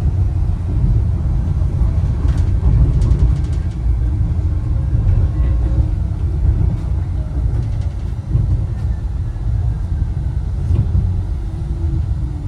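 Wuppertal Schwebebahn suspension railway car running along its overhead rail, a steady low rumble with a short run of faint clicks a few seconds in.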